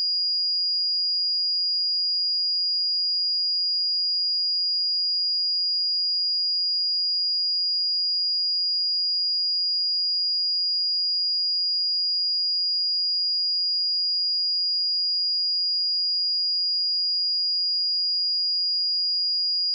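A steady, high-pitched pure sine-wave test tone at 4861 Hz, held unchanged at one level.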